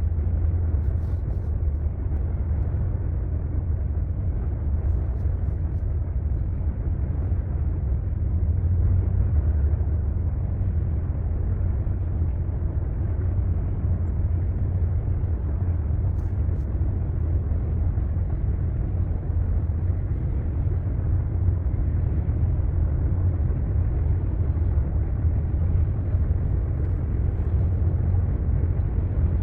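Long container freight train rolling past: a steady, unbroken low rumble with no horn or distinct wheel clicks standing out.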